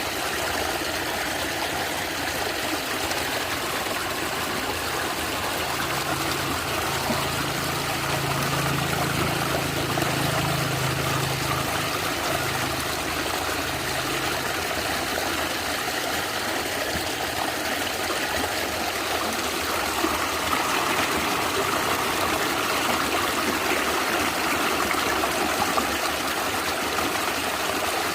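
Natural stream water gurgling and running steadily.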